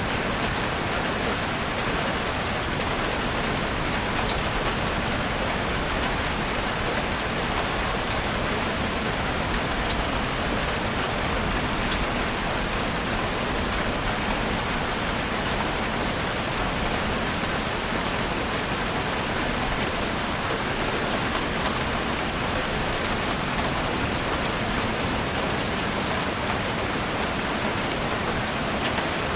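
Heavy rain drumming steadily on a roof, a dense even hiss with many small drop impacts.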